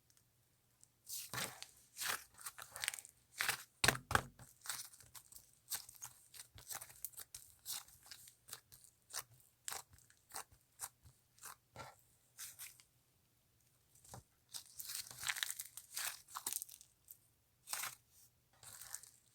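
Slime being kneaded, pressed and pulled apart by hand, giving irregular crackling pops and tearing sounds in clusters.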